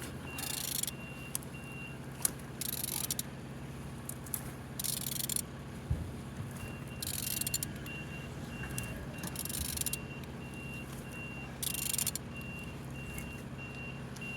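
An engine being turned over slowly by hand, giving a short hiss about every two seconds over a steady low hum. A high, regularly pulsing beep sounds briefly at the start and again through the second half.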